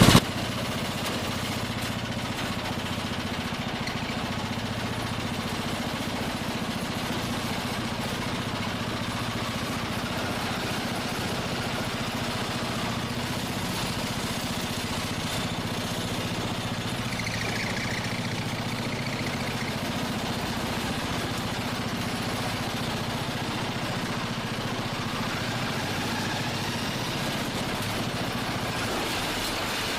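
Lifan small kart engine idling steadily through a homemade exhaust pipe.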